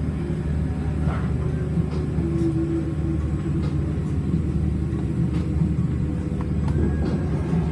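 Steady low hum and rumble of a tourist submarine's machinery, heard inside the passenger cabin.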